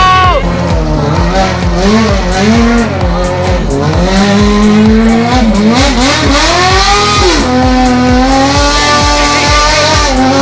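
Motorcycle engine held at high revs during a burnout, its pitch rising and falling, with tyre squeal, over music with a steady beat.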